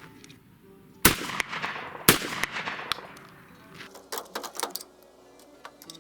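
Two shotgun shots about a second apart, each trailing off with a ringing echo, fired with reloaded Federal Hi-Bird hulls on their fourth loading. A quick run of sharp clicks follows a couple of seconds later.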